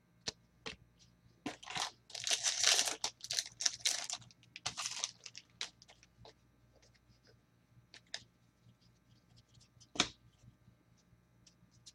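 Trading-card pack wrapper being torn and crinkled open for a few seconds, followed by light clicks and taps of cards being handled, with one sharper click about ten seconds in.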